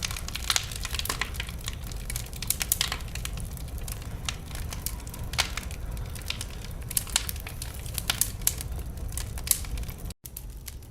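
Wood fire burning in a fireplace: irregular sharp crackles and pops over the low rumble of the flames. About ten seconds in the sound cuts out for an instant and comes back a little quieter.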